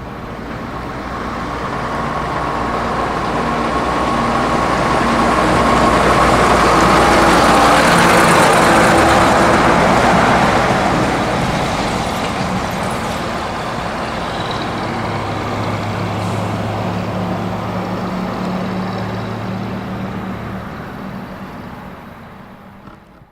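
Scania truck engine running as the truck drives by. It grows louder to a peak about a third of the way in, then drops back to a steadier, lower drone, and fades away at the end.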